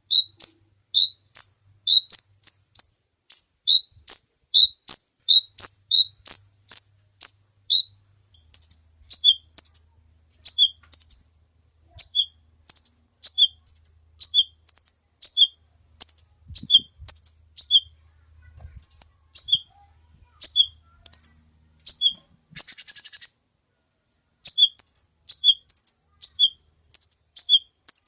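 Sunbird lure song: short, high chirps repeated about two a second, mostly as pairs of a higher and a lower note, with one brief buzzy rattle late on.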